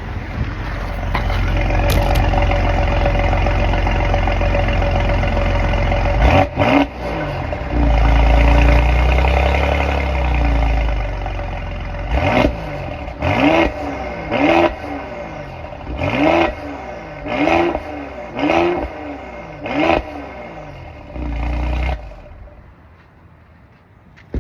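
2019 Mercedes-AMG GLE 43 Coupe's twin-turbo V6 engine and exhaust running at idle, then revved: one longer rev that rises and falls, followed by about seven short throttle blips in quick succession. The sound falls away near the end.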